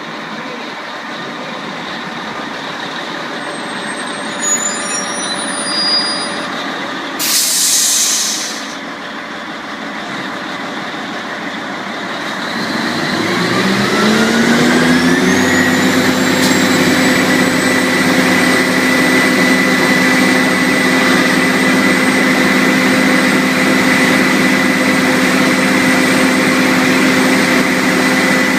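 Fire truck running, with a short burst of air-brake hiss about seven seconds in. From about twelve seconds its engine speeds up over a few seconds, then holds a steady higher speed with a whine.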